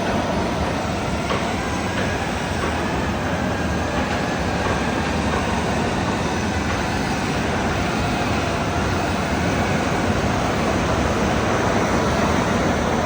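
Steady machinery noise with no clear rhythm, level throughout.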